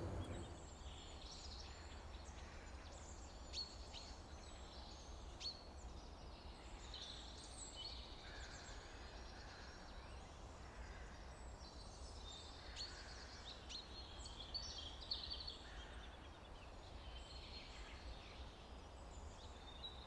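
Faint outdoor ambience of small birds chirping and singing on and off, short scattered calls, over a low steady rumble.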